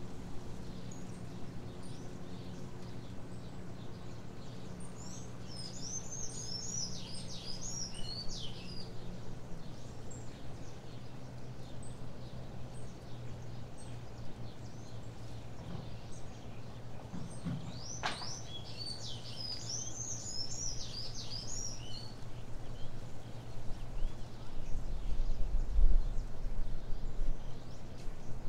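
A songbird sings two quick, twittering, warbling phrases, about five seconds in and again about eighteen seconds in, over a steady low hum. A low rumble rises near the end.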